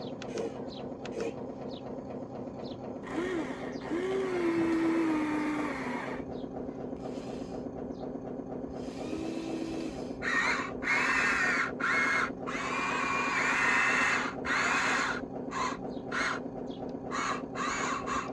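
Small electric motors and gearboxes of radio-controlled construction models whirring steadily, with louder straining bursts about three seconds in and again from about ten to fifteen seconds, and short clicks near the end.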